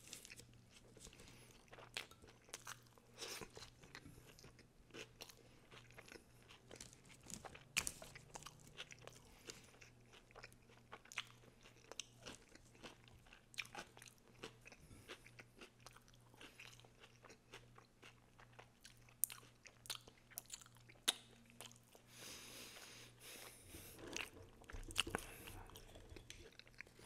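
Close-miked, mouth-closed chewing of a sandwich of bread, salami and raw vegetables: soft, irregular wet clicks and crunches, faint, over a low steady hum.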